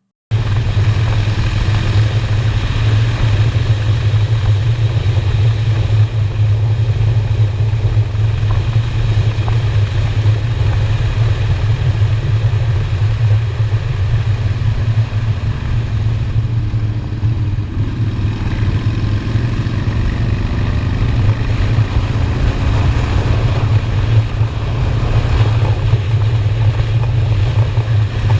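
Honda Shadow V-twin motorcycle engine running steadily while riding, with road and wind noise. The engine note shifts in pitch about halfway through, then settles.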